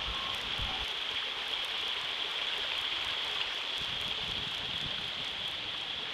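Stream water running over rocks and small drops, a steady rushing hiss.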